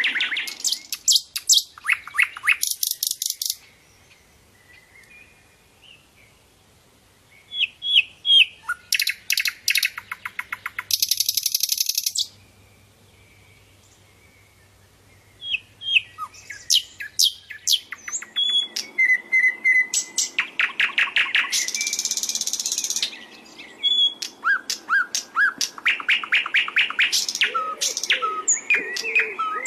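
Sikatan londo (grey-headed canary-flycatcher) singing in bouts of rapid repeated high notes and trills. There are short pauses about four and twelve seconds in, and dense buzzing trills around eleven and twenty-two seconds.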